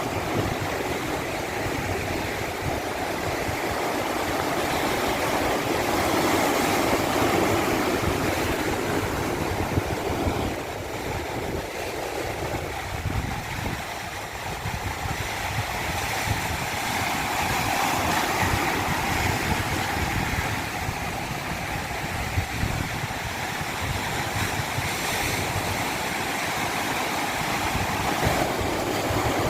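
Rushing water as a continuous wash of noise, swelling and easing slowly over several seconds.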